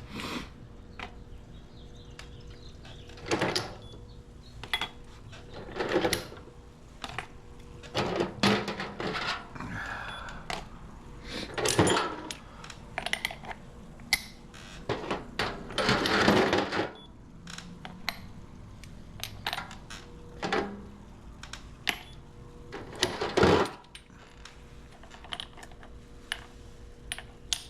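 Small cast aluminum bars and ingots clinking and knocking against each other and a hard surface as they are picked up and set down, in irregular separate clanks every second or so.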